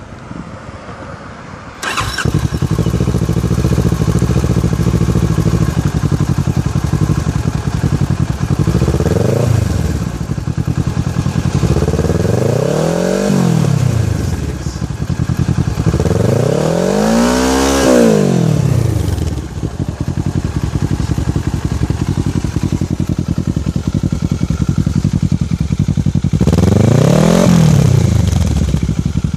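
Kawasaki Ninja 650 parallel-twin engine through a Two Brothers aluminium full system exhaust. It starts about two seconds in and idles, then is blipped four times, each rev rising and falling; the third rev goes highest. The exhaust is loud.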